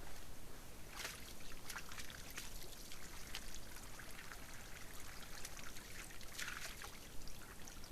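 Muddy water splashing and sloshing in irregular bursts as a red deer hind wallows and bathes in a mud wallow, with bigger splashes about a second in and again around six and a half seconds.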